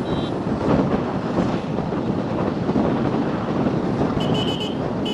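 Wind buffeting the microphone of a moving motorcycle, a steady rushing noise with the ride's road and engine noise underneath. A brief high-pitched beeping comes in near the end.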